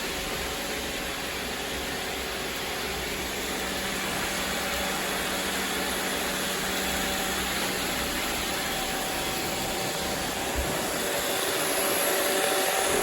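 Robot vacuum cleaner running steadily, its suction fan and brushes making an even whir, with one brief knock about ten and a half seconds in and the sound growing a little louder near the end.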